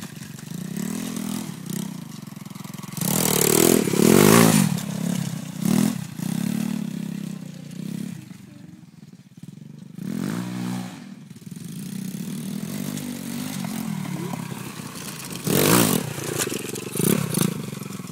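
Lifan 125 pit bike's single-cylinder four-stroke engine revving up and down in repeated throttle bursts, loudest about three to four seconds in and again near the end, dropping back toward idle in between, with some clatter and scraping.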